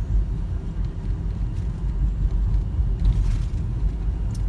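Steady low rumble of a car driving, heard from inside the cabin: road and engine noise, with a brief hiss about three seconds in.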